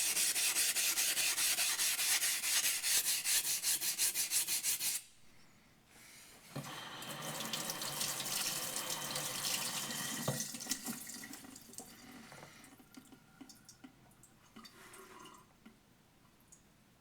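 Yanagi blade ground on a waterstone in quick back-and-forth strokes, stopping suddenly about five seconds in. Then water runs for several seconds and fades, with a few small knocks near the end.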